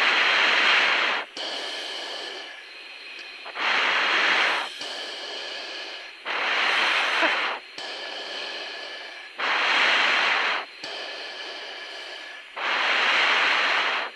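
Breathing through a fighter-jet oxygen mask, picked up by the mask microphone: five loud hissing breaths about every three seconds, with a steady cockpit hum in between.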